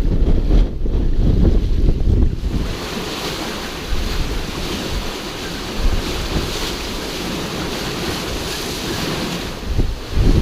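Wind buffeting the microphone for the first couple of seconds, then a steady rushing wash of sea water and waves against the sailing catamaran for the rest.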